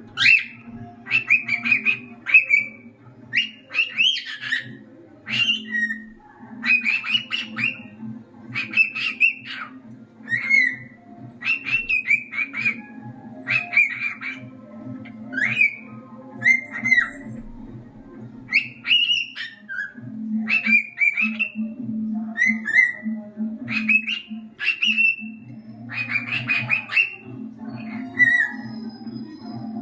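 Male cockatiel singing: a long string of short whistled notes and chirps, about one a second, some falling in pitch, over a steady low hum.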